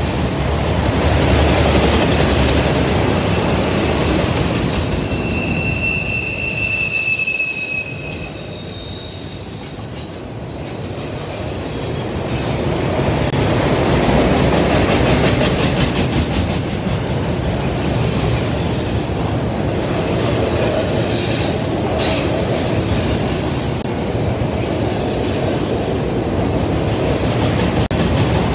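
Freight train cars rolling past, wheels rumbling and clacking over the rail, with a brief high-pitched wheel squeal about five seconds in. Sharp clicks come about halfway and again about three-quarters of the way through.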